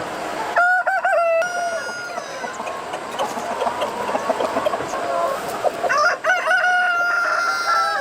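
Roosters crowing: a short crow about half a second in and a long, drawn-out crow near the end, over the steady clucking of many chickens.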